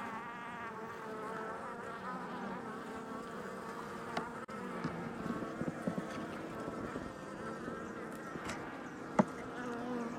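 Honeybees buzzing around an open hive, many wings droning at once with wavering pitch: a colony agitated and defensive, with one bee buzzing at the beekeeper's face. A few light clicks sound now and then.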